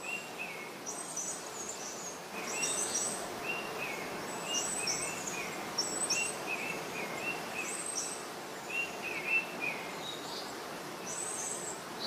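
Small birds chirping: short, quick phrases repeated every second or so, some higher-pitched than others, over a steady background hiss.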